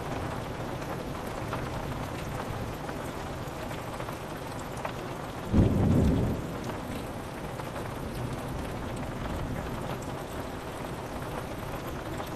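Steady rain pattering on a window pane, with scattered drop ticks. About five and a half seconds in, a short, sudden clap of thunder booms low and fades within a second.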